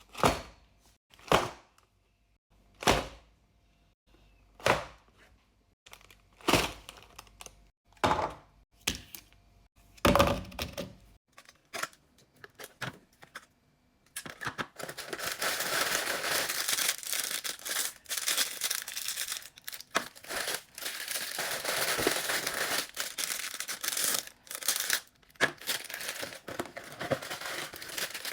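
A string of single knocks, one every second or two, then after a short pause a long, continuous crinkling and tearing of plastic ice cream wrappers being opened.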